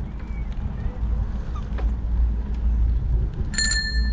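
Over a steady low rumble, a bicycle bell is rung near the end: a few quick strikes, then a bright ringing that fades.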